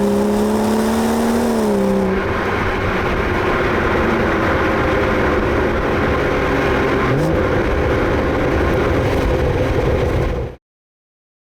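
BMW B58 3.0-litre turbocharged straight-six accelerating through its exhaust, the pitch climbing slowly and then dropping at a gear change about two seconds in. It then runs on steadily and rougher, with another brief shift around seven seconds, before the sound cuts off suddenly near the end.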